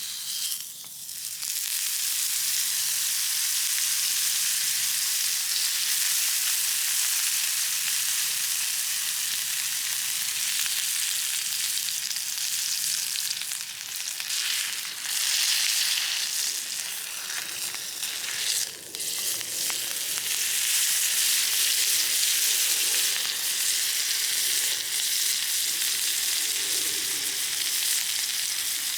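Food frying in oil in a hot pan: a loud, steady sizzle that rises abruptly right at the start and keeps going, dipping briefly around the middle.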